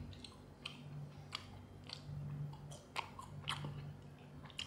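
A person chewing french fries close to the microphone: about a dozen irregular soft crunches and wet mouth clicks, with a steady low hum underneath.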